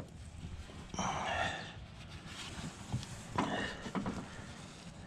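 Faint handling noises: a brief rustle about a second in, then a few light knocks and clicks near the four-second mark, as a socket and a freshly removed spark plug are handled.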